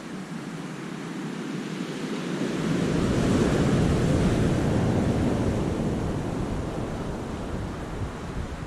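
Sea waves breaking and washing in a rocky cove. One wave swells about two and a half seconds in, is loudest for a couple of seconds, then slowly washes away.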